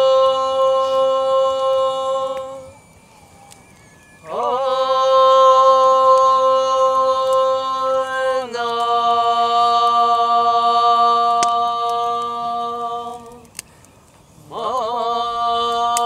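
A single voice chanting long held vowel tones, each note sustained for several seconds and sliding up into pitch at its start, with a short pause for breath about three seconds in and again near the end; the vowel shifts midway through the long middle note.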